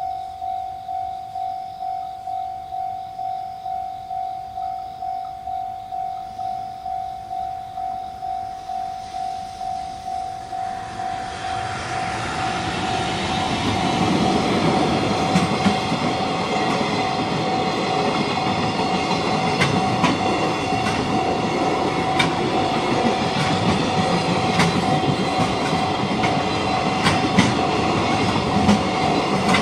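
Japanese level-crossing warning bell ringing in a steady repeated ding, about two a second. About eleven seconds in a train comes up and passes, its wheels clacking over the rail joints, and it grows much louder than the bell while the bell keeps ringing.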